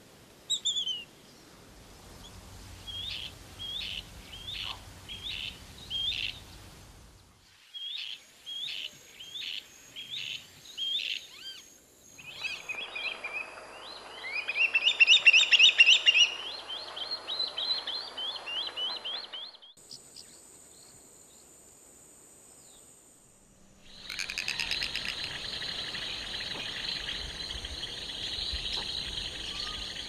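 Bird calls in several short recordings cut together. First a series of short, thin down-slurred call notes, about one or two a second. Then a faster, louder chattering run of notes. Near the end comes a dense, steady buzzing chorus.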